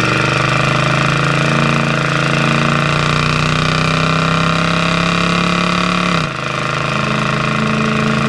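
A 383 big-block V8 pulling under acceleration through a 727 automatic. Its pitch climbs steadily for about six seconds, then drops suddenly as the transmission shifts up, and the engine settles at lower revs.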